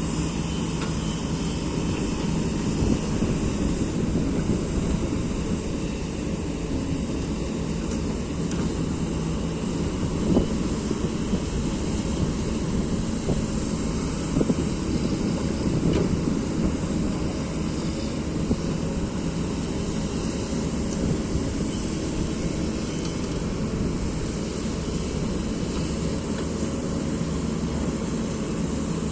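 Excavator diesel engine running steadily, with a few louder knocks about ten and fifteen seconds in.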